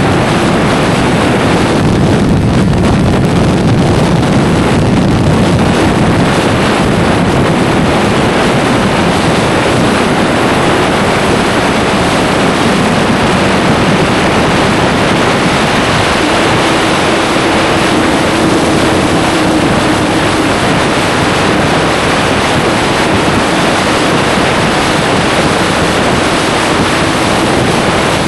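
Heavy, steady wind rushing over the microphone of a motorcycle rider at speed, with a faint steady engine note underneath.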